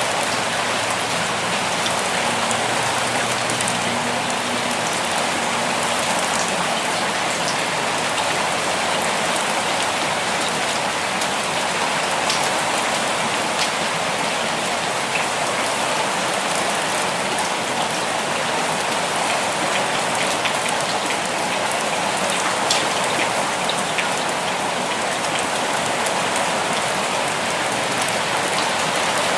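Steady rainfall, a constant hiss with scattered individual drops ticking on a surface.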